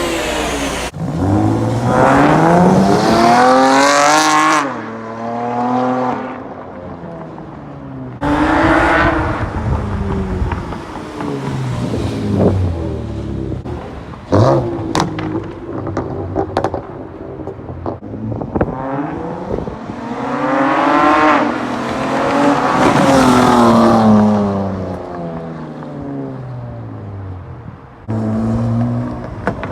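Car engine revving hard and accelerating, its pitch climbing and dropping again in several separate runs, with a few sharp pops about halfway through.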